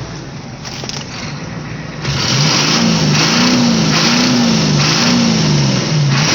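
Cab heater blower fan switched on about two seconds in, over the truck's running noise: a steady rush of air with a low hum that warbles up and down about once a second, the fan working on the defrost setting.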